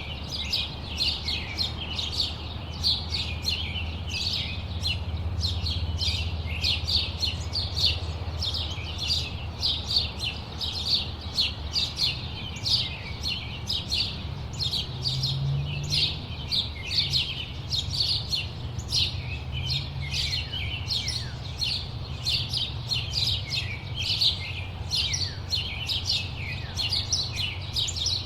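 A chorus of small birds chirping steadily: many short, quick, overlapping high chirps, several a second, over a low, steady rumble.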